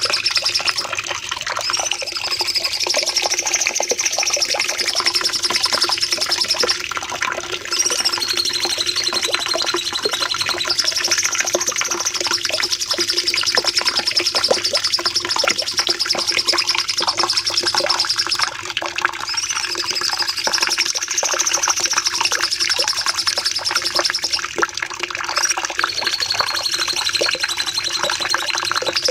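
Cucak cungkok songbird singing a long, unbroken rapid song ('nembak panjang'): fast chattering notes under high whistled phrases that rise and fall, with brief breaks every several seconds. A faint steady low hum runs underneath.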